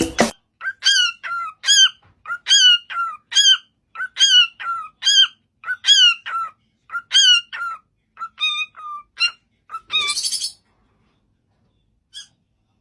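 A parrot calling over and over: a run of short, identical squawks, about two a second, for some nine seconds. A brief harsher screech follows, then a single squawk near the end.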